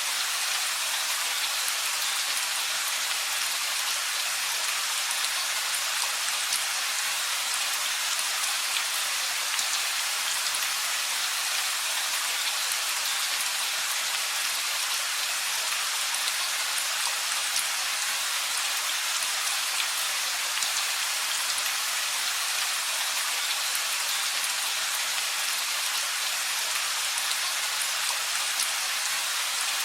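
Steady rain falling on surfaces at an even level, a dense patter of drops with no thunder.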